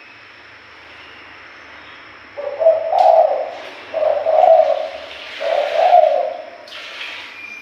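Spotted dove cooing: three low coo phrases, each about a second long and a second and a half apart, starting a couple of seconds in over a steady hiss.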